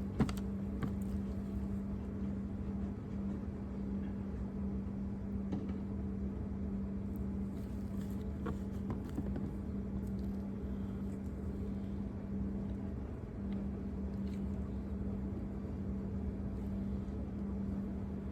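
A steady low hum with a constant tone, like a running machine, under a few faint clicks and taps of plastic interior trim being handled and pried off.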